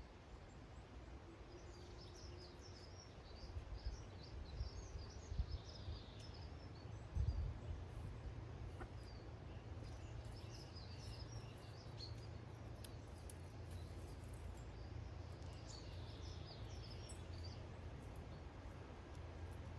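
Small garden songbirds giving short, high chirps and twitters at intervals over a steady low rumble, with a few soft knocks about four to seven seconds in.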